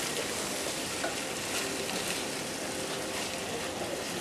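Chopped onions and tomatoes sizzling in a frying pan as they are stirred with a wooden spoon, a steady hiss with a few light ticks from the spoon.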